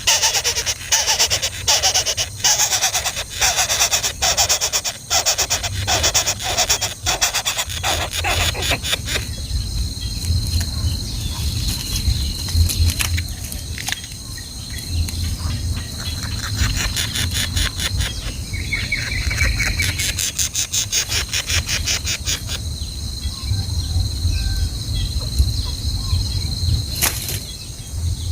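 Baby birds' begging calls: rapid, dense high cheeping for the first nine seconds or so, then mostly dying away. A steady high buzz of insects runs throughout, with a low rumble underneath.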